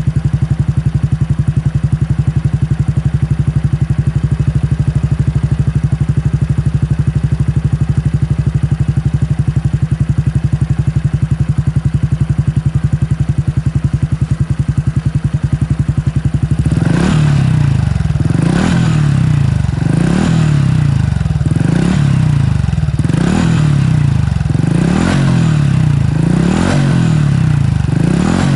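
Honda Super Cub 110's single-cylinder four-stroke engine, breathing through a BEAMS Power Classic Caburton full exhaust, idling steadily. About two-thirds of the way through it starts being blipped: short revs rising and falling roughly every one and a half seconds.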